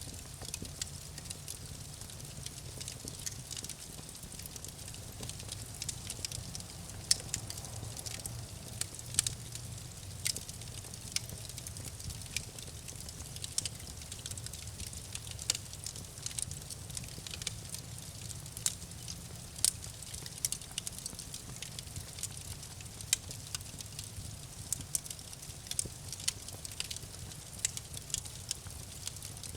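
Campfire burning and crackling: irregular sharp pops and snaps from the burning wood over a steady low rumble of the flames.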